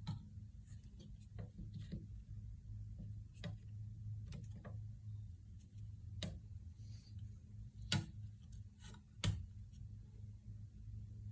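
Irregular light clicks and taps over a steady low hum, with two sharper clicks near the end.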